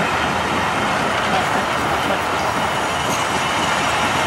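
British Rail Mark 1 passenger coaches running past at speed close by: a steady rumble and rush of wheels on rail.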